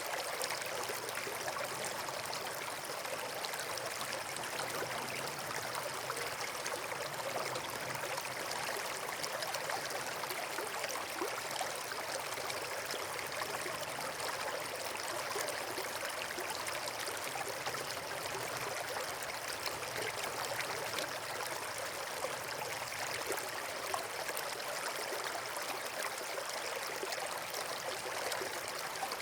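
Steady, even rush of flowing water, like a stream or small waterfall.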